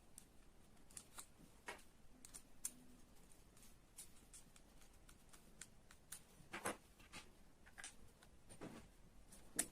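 Scattered light clicks and taps of small parts being handled, with a few louder knocks about six and a half seconds in and near the end.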